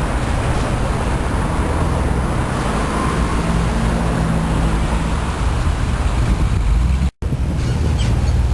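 Engine rumble and traffic noise from old cars driving past on a city street, with deep low engine tones throughout. The sound cuts out briefly about seven seconds in, then the engine rumble resumes.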